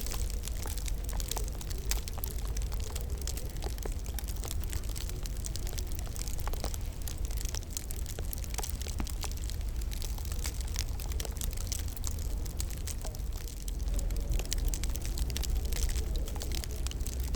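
Wood fire crackling in a fireplace: a dense, irregular stream of small pops and snaps over a steady low rumble.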